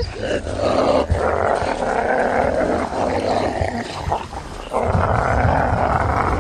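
Wolves making harsh, continuous growling calls. There is a short lull a little after four seconds in, then the sound comes back loud.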